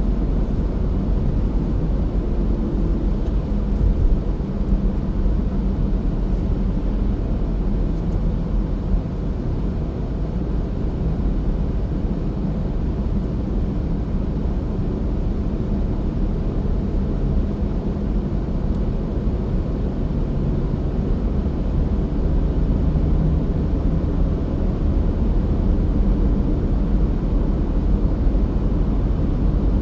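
Steady rumble of a car being driven: engine drone and tyre noise at an even cruising pace.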